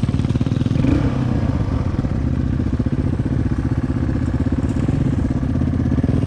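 Dirt bike engine idling steadily with an even, rapid firing beat.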